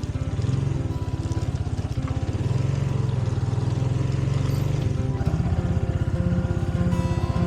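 Motorcycle engine running, its note changing about five seconds in and settling into an even, steady pulsing.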